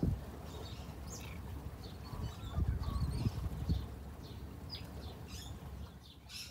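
Small birds chirping repeatedly, short quick calls scattered throughout, over a low rumble that swells for about a second in the middle.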